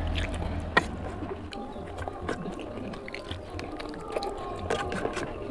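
Close-miked wet chewing and lip-smacking of a mouthful of oily mutton fat curry and rice, a dense run of short squelches and clicks.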